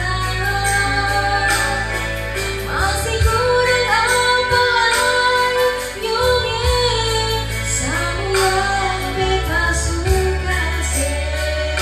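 A song with a woman singing over a backing track with a steady bass line.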